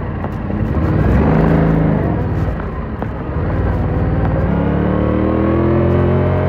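Motorcycle engine accelerating: the pitch climbs for about a second and a half, drops back, then climbs steadily again from about four and a half seconds in, as in pulling through the gears.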